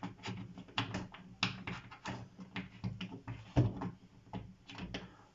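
Irregular clicks and light knocks of a screwdriver driving screws to fix the clothes-rail brackets inside a flat-pack wardrobe, with one louder knock about three and a half seconds in.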